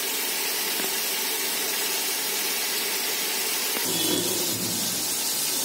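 Ground masala paste of tomato, onion, ginger and garlic frying in hot oil in a kadhai, giving a steady sizzling hiss as the gravy cooks down.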